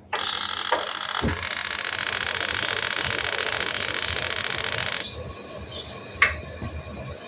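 Rinnai gas heater starting up: a steady whirring hiss with a fine rapid pulsing comes on at once and stops abruptly about five seconds in, then a single click a second later. This is a normal start with no error, the blower motor having been freed from a slight jam.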